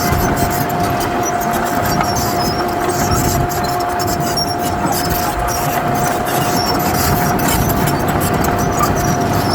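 Heavy diesel earthmoving machinery running steadily, a low rumble with a steady high-pitched whine held throughout.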